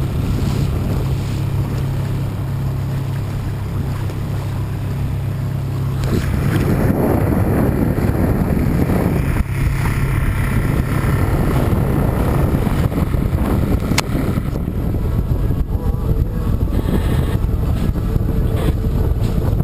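A boat engine running with a steady low hum, with wind buffeting the microphone. About six seconds in the sound changes abruptly to mostly rough, gusty wind noise with rushing water.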